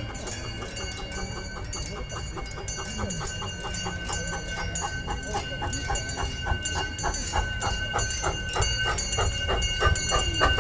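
Two small live-steam locomotives working together as a double header, chuffing in a fast, even beat that grows louder, over a steady high ringing tone.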